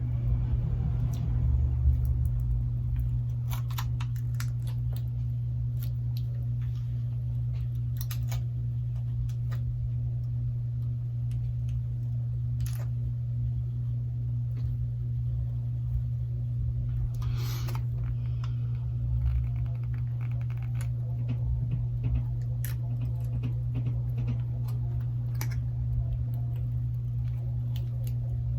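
A steady low hum with scattered small clicks and taps from handling the phone parts and tools, and a brief scrape about seventeen seconds in.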